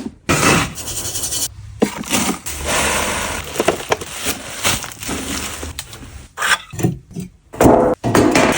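Scraping and scooping in a cat litter box: repeated rough strokes of varying length, with short pauses between them.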